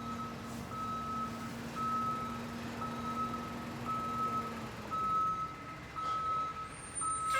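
Vehicle reversing alarm beeping steadily, about once a second, with a low steady hum under it that stops about two-thirds of the way in.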